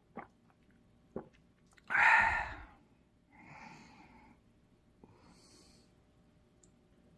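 A person's breathing: a loud breathy exhale about two seconds in, followed by two softer breaths, after two small knocks near the start.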